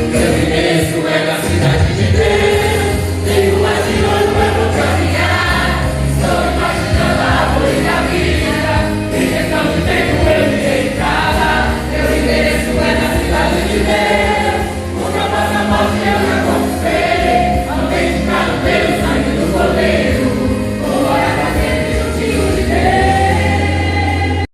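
Gospel praise song sung by a choir of voices over band accompaniment with a steady low bass.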